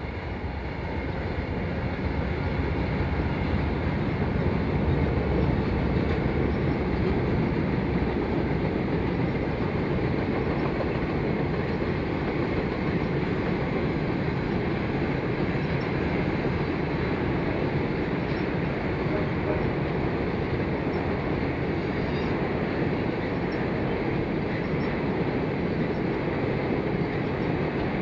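Passenger train of private railroad cars rolling across a steel trestle: a steady rumble of wheels on rail that grows louder over the first couple of seconds, then holds.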